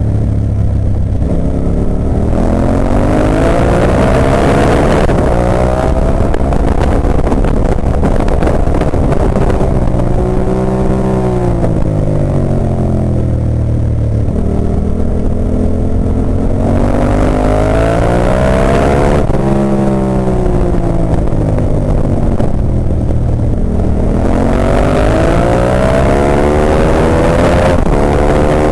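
Ducati 998's L-twin engine under racing load, its pitch climbing hard and then falling away again several times as it accelerates, changes gear and slows for corners, with a steady rush of wind noise underneath.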